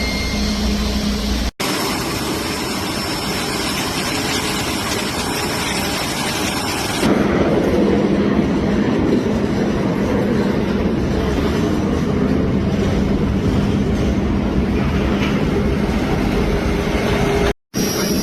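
Light propeller aircraft engine running with a steady rush of air and engine noise, with a few low steady tones. The sound breaks off abruptly about a second and a half in and again near the end, and it grows louder and rougher about seven seconds in.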